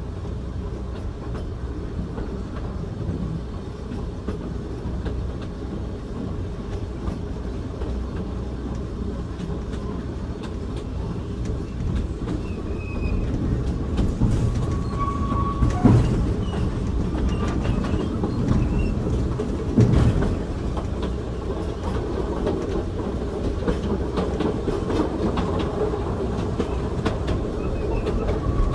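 Interior sound of an Ikawa Line passenger car (OIG016) running on the narrow-gauge line: a steady low rumble with wheels clicking over rail joints. It grows louder about halfway through, with a brief wheel squeal and two heavier knocks a few seconds apart.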